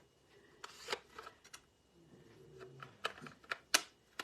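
Paper-crafting supplies being handled on a craft table: a scattering of light clicks and paper rustles, with a sharper click near the end.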